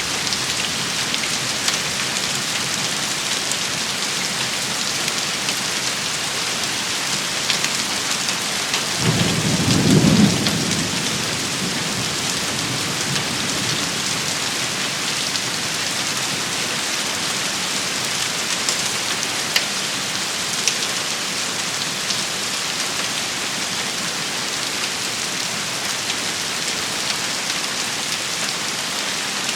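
Steady rain shower hissing on surfaces, with scattered sharp drop hits. A brief low rumble comes about nine seconds in.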